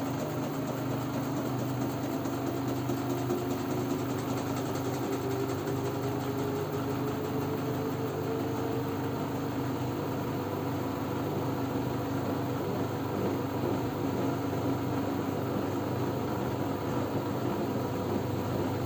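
LG F10B9LD front-loading washing machine in its spin cycle: a steady drum and motor drone with a whine that slowly rises in pitch as the drum speeds up toward its 1000 rpm spin.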